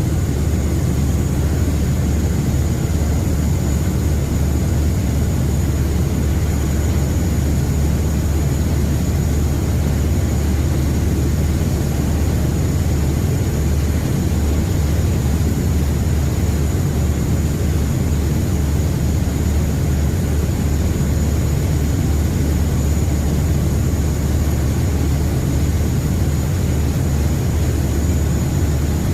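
Steady low drone of a river passenger boat's engines, heard on board while under way, with a faint steady high whine above it.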